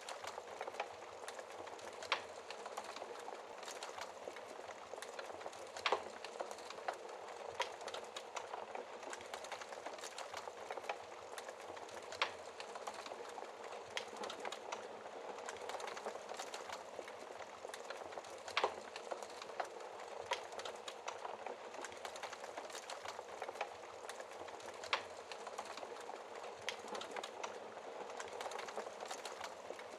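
Burning logs in a fireplace crackling, with constant small snaps and a louder pop every few seconds, over the steady hiss of rain.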